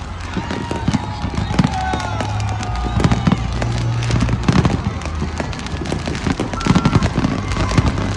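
Fireworks going off in a rapid, continuous barrage of sharp bangs and crackles.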